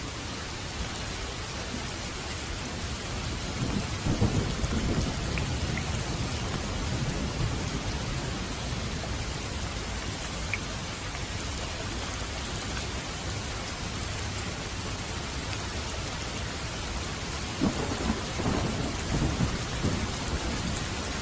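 Steady rain falling, with thunder rumbling twice: once about four seconds in and again, longer, near the end.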